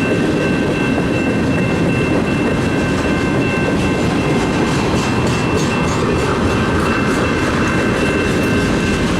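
Freight cars of a long mixed freight train rolling past close by: a steady loud rumble of wheels on rail, with a thin, high, steady ringing tone running over it.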